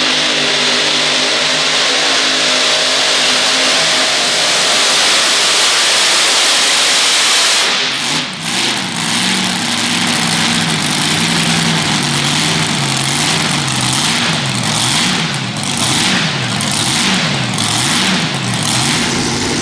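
Competition tractor-pull engine at full throttle, loud and dense, for about eight seconds. Then the throttle drops and the engine is revved up and down again and again for the rest of the time.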